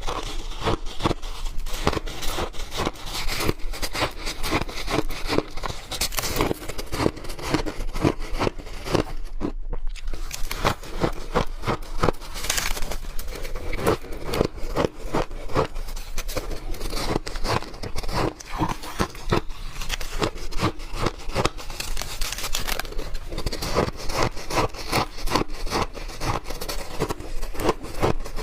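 Soft, chunky white freezer-frost ice being bitten and chewed close to the microphone: a dense run of crackly crunches, with one short pause about a third of the way through.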